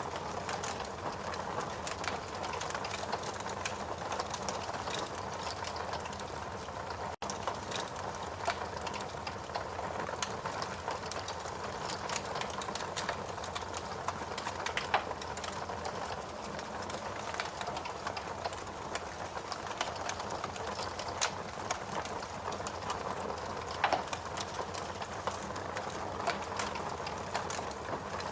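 Wood fire in a fireplace burning steadily, with a constant hiss of flame and a dense patter of small crackles, broken now and then by a louder sharp pop. The sound drops out for an instant about a quarter of the way in.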